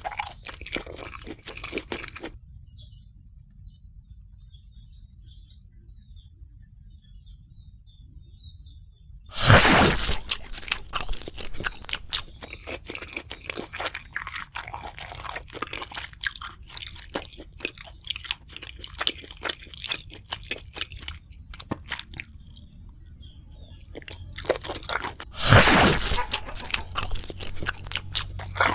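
Close-miked eating of crispy fried food: loud crunching bites about ten seconds in and again near the end, with crackly chewing between and a quieter stretch of softer chewing early on.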